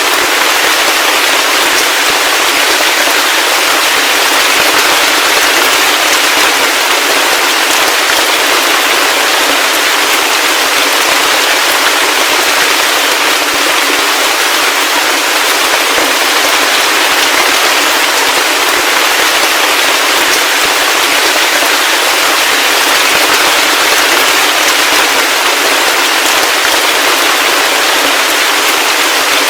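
Heavy rain falling steadily: a dense, even hiss of countless drops with no thunder and no low rumble.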